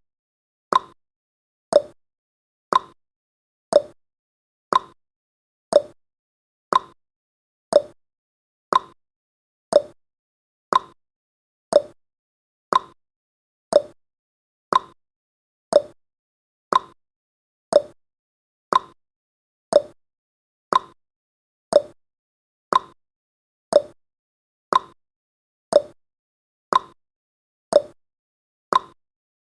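Clock-style tick-tock sound effect of a countdown timer: one sharp tick every second, alternating between a higher and a lower tick.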